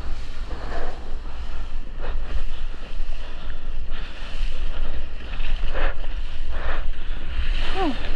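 Wind buffeting a GoPro microphone over rushing, splashing seawater, with several short splashes through it.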